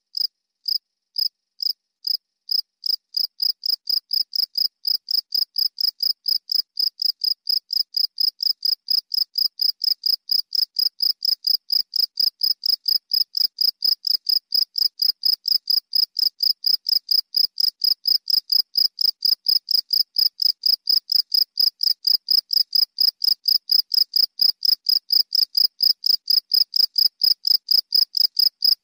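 A cricket chirping: a steady run of short, high-pitched chirps. It starts at about two chirps a second, quickens to about three a second, and grows slightly louder.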